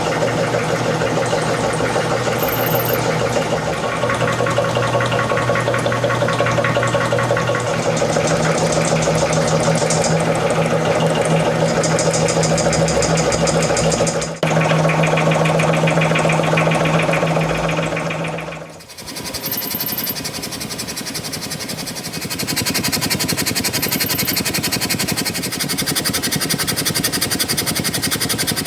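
Small model engine running steadily with a fast, even pulse. The sound breaks off briefly about 14 seconds in and changes abruptly about 19 seconds in to a different, somewhat quieter running engine.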